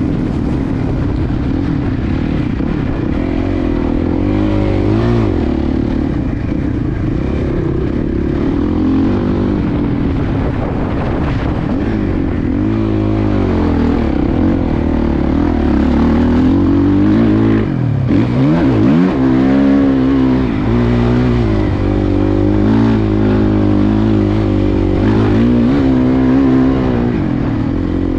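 Suzuki motocross bike's engine being ridden round a track, revs rising and falling as the throttle is opened and shut through the corners and jumps. About two-thirds of the way through the revs drop sharply, then climb back up.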